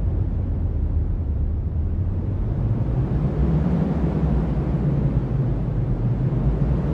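Cyclone wind blowing hard and steadily, heard as a deep, even rumble without gusts standing out.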